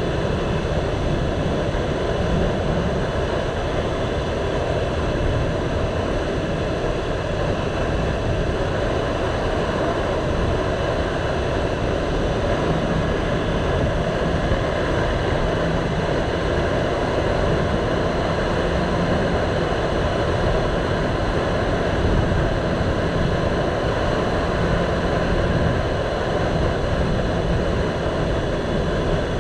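Motorcycle riding along at a steady pace: the engine running under a steady rush of wind noise on the camera microphone, with no change in speed or gear.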